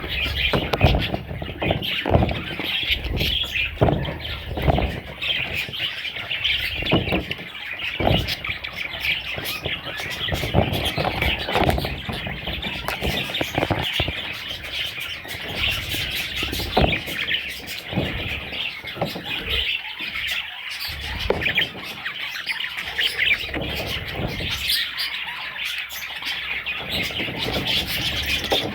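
Budgerigars chirping and chattering continuously, with frequent short knocks and taps mixed in.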